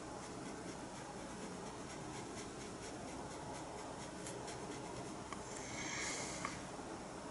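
Faint strokes of a paintbrush on canvas: soft, scratchy rubbing as short lines of acrylic paint are laid down, with a slightly louder stroke about six seconds in.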